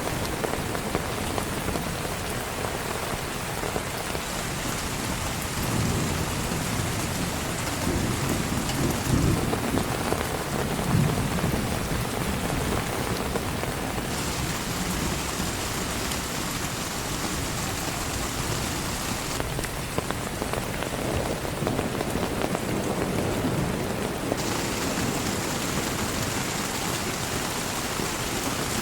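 Heavy rain falling steadily, with a low rumble of thunder about six to twelve seconds in.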